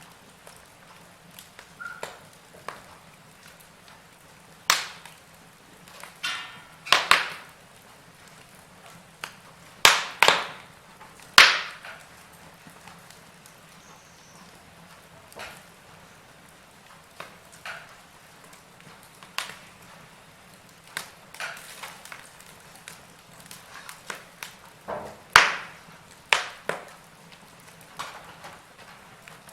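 Wood fire crackling: burning logs giving off irregular sharp pops and snaps over a faint steady hiss, with bursts of louder pops scattered throughout, among them a quick cluster about ten seconds in.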